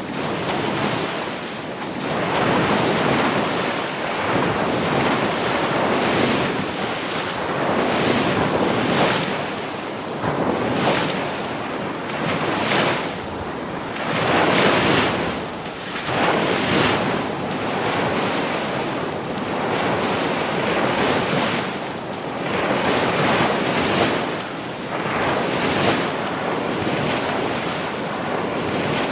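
Ocean surf: waves washing and breaking in a continuous, full rush that swells and eases every second or two.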